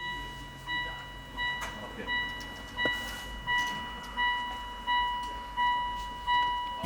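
Car's electronic warning chime beeping steadily, about once every 0.7 seconds.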